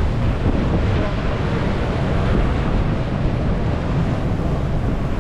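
Wind buffeting the microphone over the steady rush of a boat under way at sea.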